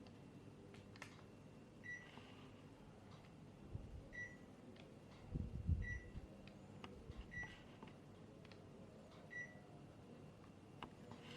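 Panasonic Envio inverter split air conditioner's indoor unit giving five short high beeps, a second or two apart, the acknowledgement beeps it makes when it receives a remote-control command, over a faint steady hum. A low thump about halfway through.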